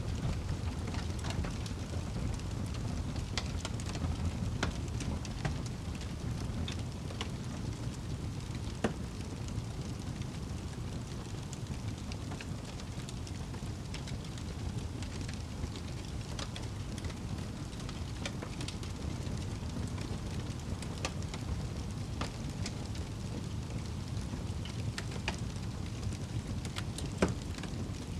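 Log fire crackling over a steady low rumble of flames, with scattered snaps and a couple of louder pops.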